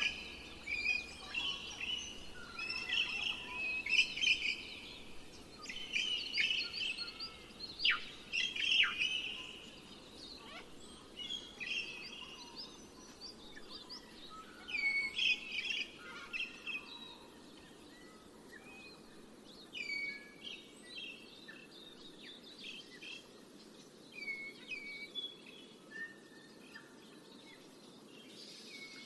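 Several songbirds chirping and trilling, with dense overlapping calls in the first half that thin out to scattered chirps later, over a faint steady background hiss.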